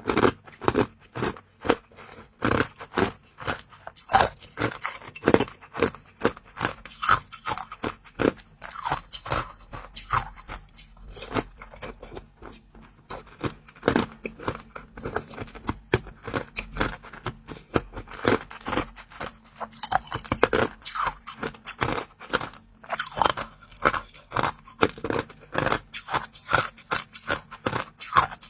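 Close-up crunching and chewing of a crisp food, a rapid irregular run of sharp crunches with brief pauses.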